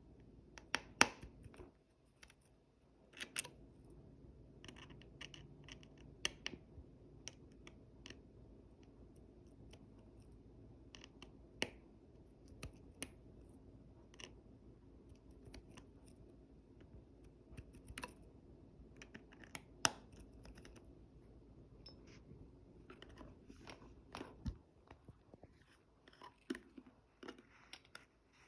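Small tools and parts being handled during iPhone repair: scattered light clicks and taps of a precision screwdriver, small screws and internal parts against the phone's frame and the work surface, a few of them sharper.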